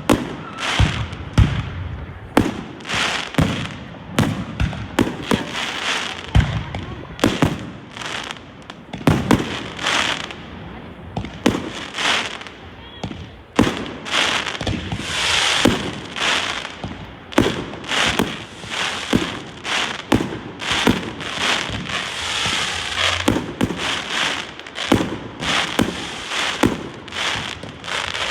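Fireworks display going off continuously: a rapid series of sharp bangs and booms, often several a second, with crackling between the bursts.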